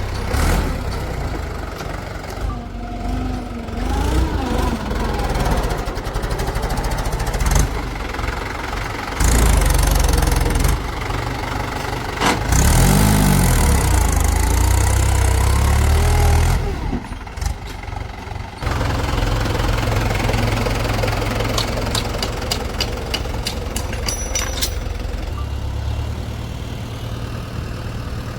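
Heavy diesel machinery engines running under load in cut-together stretches, the engine note rising and falling, with a run of sharp clicks or knocks near the end.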